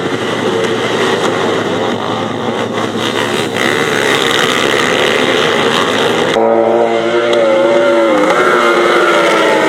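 Grasstrack racing motorcycle engines running hard. About six seconds in the sound changes abruptly to a clearer engine note that rises and falls slightly.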